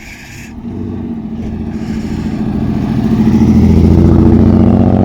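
Alfa Romeo V6 engine running, growing steadily louder to a peak about four seconds in.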